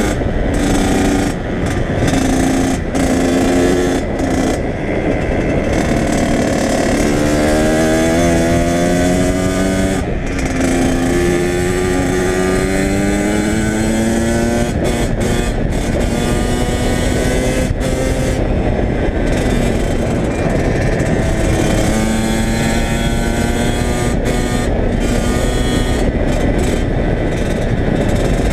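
Kawasaki KX100 two-stroke dirt bike engine running while being ridden. Its pitch rises several times as it accelerates and drops back between the pulls.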